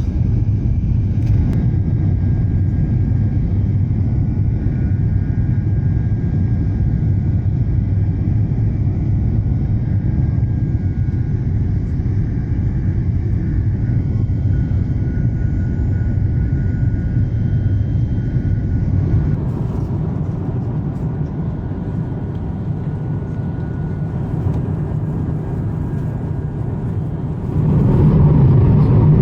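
Airbus A350-900 cabin noise: a steady low rumble from its Rolls-Royce Trent XWB engines and airflow, with a faint steady whine above it. It jumps suddenly louder near the end.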